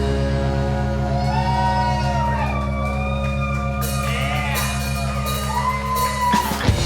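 A rock band playing live: a held low drone with a fast pulse under it, and high notes that glide and bend up and down above it. The drone breaks off near the end before the band comes back in.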